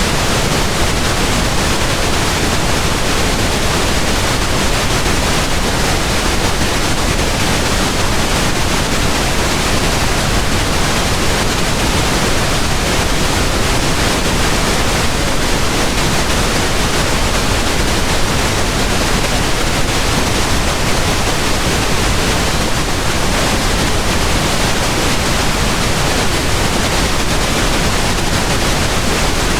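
Steady pink noise, an even hiss spread across all pitches with no change or events.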